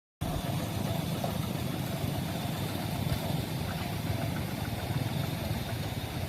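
A steady, low engine rumble, as of a running vehicle, starting abruptly just after the beginning out of dead silence.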